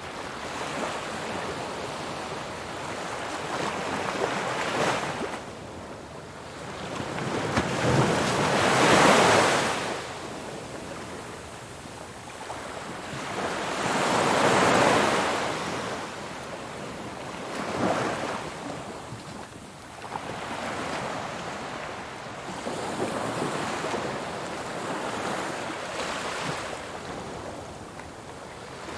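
Ocean waves breaking on a shore in a continuous wash of surf, with bigger waves swelling and crashing about nine seconds in, again around fifteen seconds, and a shorter one near eighteen seconds.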